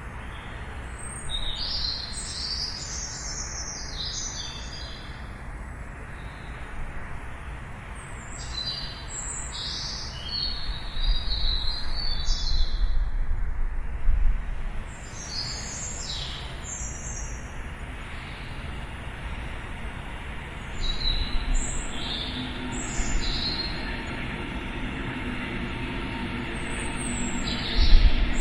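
Small birds chirping in quick bursts of high notes, several times, over a steady low background rumble that swells louder a little before the middle and again at the end.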